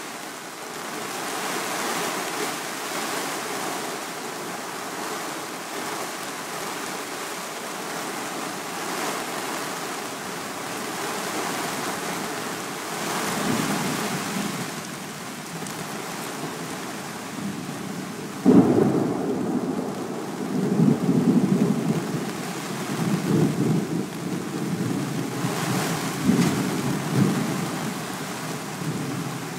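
Heavy rain hissing steadily, with a low rumble of thunder about 13 seconds in, then a sudden loud thunderclap about 18 seconds in followed by repeated low rumbling.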